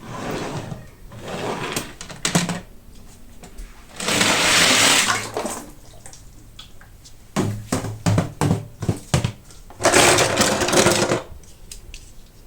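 Toy-car packaging being handled and opened: several bursts of rustling, tearing noise, with a quick run of knocks and clicks in between.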